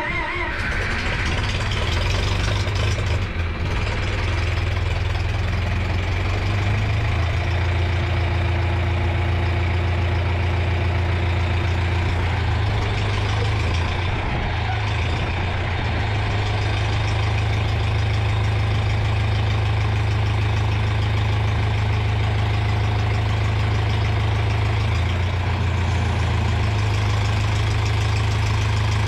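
Tractor engine running steadily at idle, a constant low drone with no change in speed.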